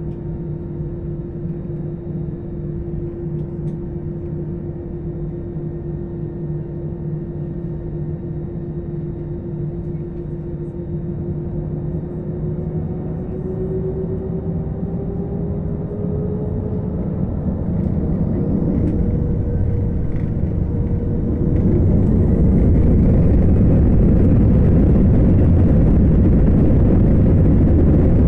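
Airliner's jet engines heard from inside the cabin: a steady engine hum with a tone that rises slowly in pitch as the engines spool up. About three-quarters of the way through, the engine noise steps up sharply louder and fuller as takeoff thrust is set for the takeoff roll.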